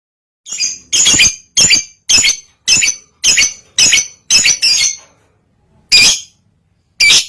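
Lovebird in breeding condition calling: a run of about nine sharp, high chirps, roughly two a second, then two more after a short pause.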